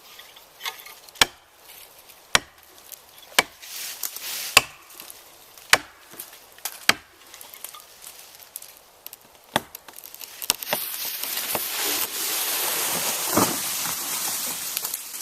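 Heavy blows on wood, six of them evenly spaced about once a second, then a few more: a faller striking a hardwood-sounding target, as when driving felling wedges. A rising rushing and crackling follows as the tree goes over, with a heavy thud near the end.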